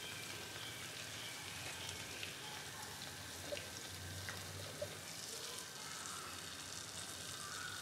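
Jalebi batter coils frying in a little hot ghee: a faint, steady sizzle, with a few soft clicks partway through.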